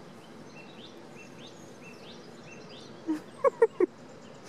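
Small birds singing faintly, a series of short rising chirps, over a steady outdoor background. About three seconds in, four short, loud sounds with a clear pitch come in quick succession.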